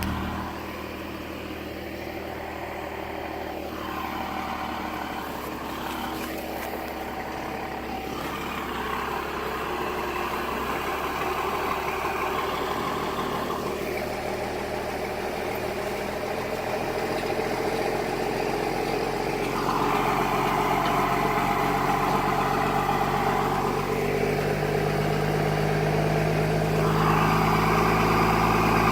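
Truck engine running and revving in several stretches, getting louder overall, as the truck is driven through a mud hole.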